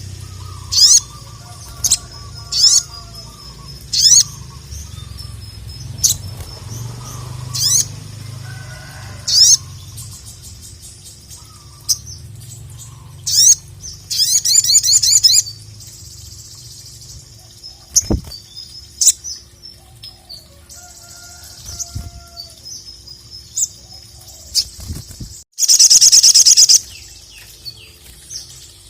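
Sogok ontong (sogon, little spiderhunter) singing: sharp, high, quick chirps every second or two, broken by a rapid trill about halfway through and a louder trill near the end.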